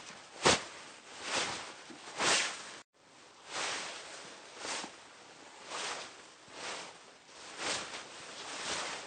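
Hanbok fabric rustling and swishing as the wearer moves, in soft swishes about once a second. The sound cuts out for an instant just before three seconds in.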